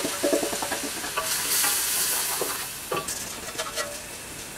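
Ground spices and ginger-garlic paste sizzling in hot oil in a metal pot, with a wooden spoon stirring and scraping against the pot. The sizzle grows quieter over the last couple of seconds.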